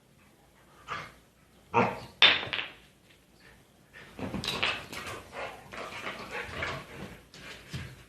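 A dog making noise: a short sound about a second in, two loud, sharp sounds about two seconds in, then several seconds of uneven, noisier sound.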